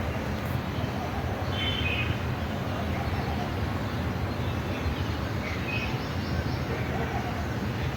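Small birds chirping a few short calls, about two seconds in and again several times near the end, over a steady low outdoor rumble.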